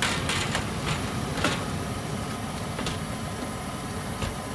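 Goodman gas furnace running with a steady rush, its burners lit and the draft inducer going, while the sheet-metal blower door is fitted back on with several short metal knocks and clatters.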